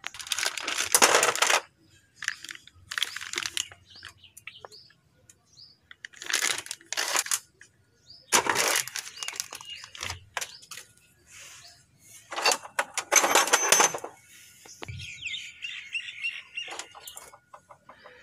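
Five bursts of rattling metal-on-metal noise, each lasting about a second, from work on a JCB's front axle spindle and wheel bearing. Birds chirp faintly near the end.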